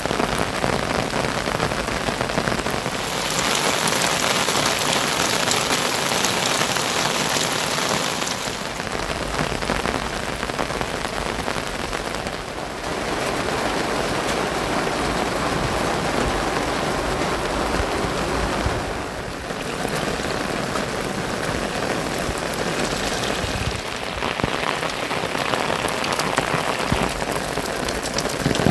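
Heavy rain falling steadily, a dense hiss of drops striking surfaces. Its tone shifts abruptly several times.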